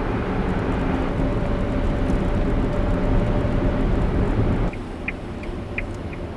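Steady road and traffic noise with a faint hum. About two-thirds of the way in it cuts abruptly to quieter ambience with a few short, high chirps.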